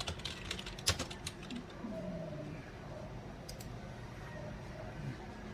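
A quick run of computer keyboard and mouse clicks in about the first second, then only a steady low background hum.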